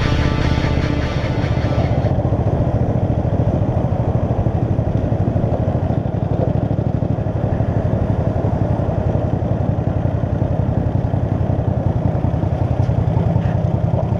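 Kasinski Mirage 250 motorcycle's V-twin engine running steadily on the road. Background music fades out about two seconds in.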